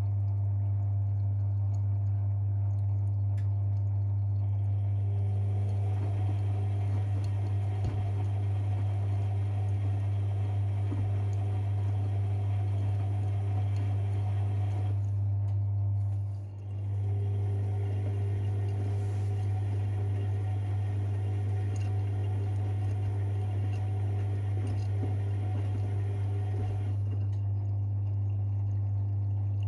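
Privileg 5020 washing machine working early in its Easy-Care 40°C wash: a steady low hum with water sloshing and running as the drum turns. The drum noise stops briefly about sixteen seconds in, then starts again.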